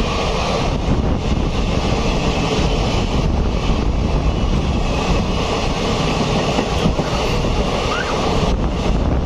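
Two passenger trains running side by side at speed on parallel tracks: a loud, steady rumble of steel wheels on the rails, with clattering over the rail joints and rushing wind.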